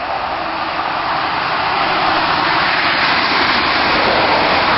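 Steady road noise of a moving vehicle: a loud, even hiss that swells slightly toward the end.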